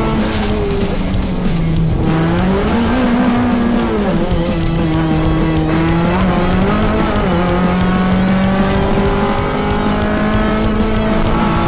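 Fiat Seicento rally car's engine heard from inside the cabin at stage pace. The revs climb and drop every couple of seconds as it shifts gear and slows for corners.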